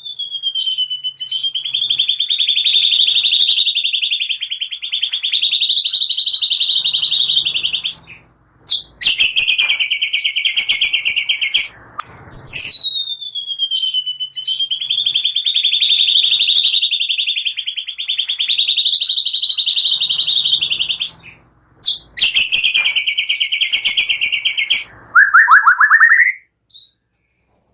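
Recorded songbird calls: long, rapid, buzzy trills held steady for several seconds with short gaps between them. The same sequence is looped and repeats about 12 seconds later, and a short series of rising chirps comes near the end.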